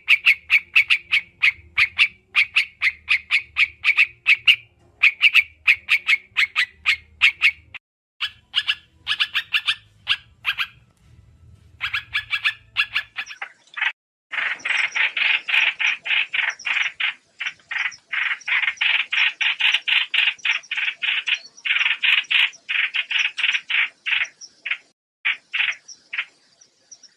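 Trao trảo bird calling in fast runs of short, repeated chattering notes, recorded as a trapping lure. A faint low hum lies under the first half, there is a brief pause around the middle, and the calls then come back louder and denser.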